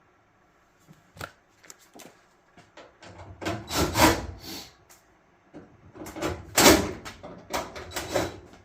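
A few light clicks and knocks, then two longer bouts of scraping and rubbing as screws are worked out of the dryer's sheet-metal front panel.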